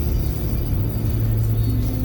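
Music playing on a car radio over the steady low rumble of a car driving.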